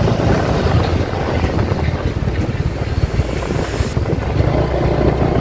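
Wind buffeting the microphone, a loud, low, unsteady rumble over open-air ambience.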